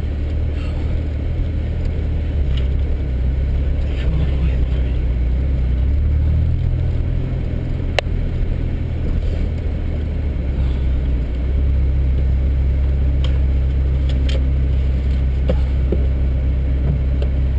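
MG ZS160 car engine running at low revs, heard from inside the cabin as the car drives slowly over a rough field. The drone eases off for a few seconds in the middle and picks up again. A sharp knock comes about halfway through, with a few fainter knocks later.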